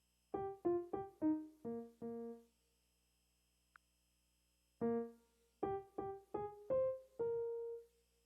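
Keyboard music: a short run of about six single notes, a pause, then a second run of about seven notes ending on a held note.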